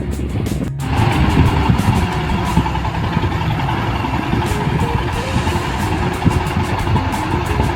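Motorcycle riding at speed: engine running under a heavy rumble of wind on the microphone, with a brief dropout just under a second in.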